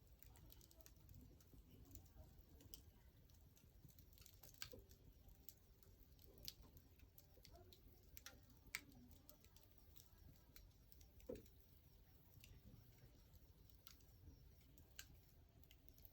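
Wood fire crackling faintly, with scattered irregular pops and snaps, a few louder ones near the middle.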